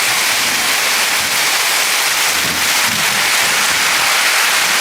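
Heavy rain pouring down in a steady loud hiss, a hard downpour.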